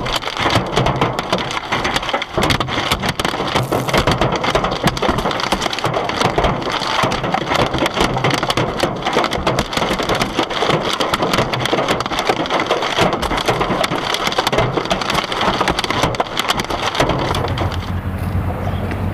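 Hailstones pelting a car, a dense, continuous clatter of hard impacts. About 17 seconds in, the clatter gives way to a steadier sound with a low hum.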